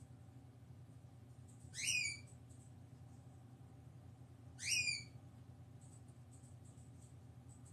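Two short, high, rising whistled calls, about three seconds apart, from a bird, over a steady low hum.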